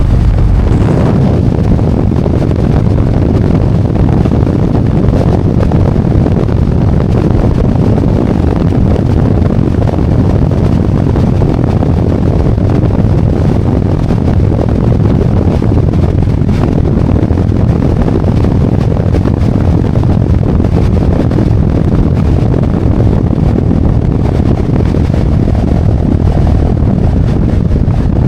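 Harley-Davidson Road Glide V-twin running at road speed, mixed with steady wind rush on the microphone.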